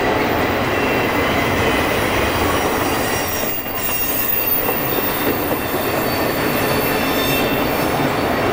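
Southern Pacific diesel freight locomotives working hard up a steep mountain grade with their train: a steady, loud noise of engines and rolling cars, dipping briefly about three and a half seconds in.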